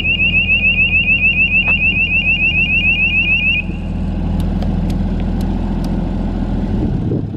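Kubota three-cylinder diesel engine of a lighting tower generator running steadily. Over it, an electronic warning beeper sounds rapid, repeating rising chirps, then stops about three and a half seconds in. A few light clicks follow.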